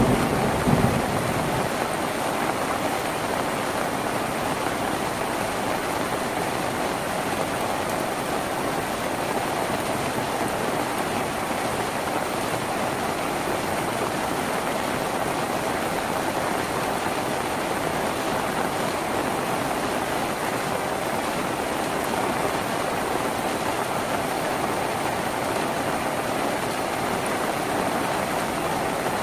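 Steady rain drumming on a tin roof, an even hiss and patter throughout. A low rumble of thunder dies away in the first second or two.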